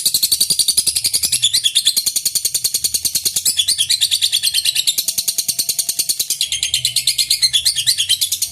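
Lovebird in long 'ngekek' song: an unbroken run of rapid, high-pitched chattering notes, many to the second, that never pauses.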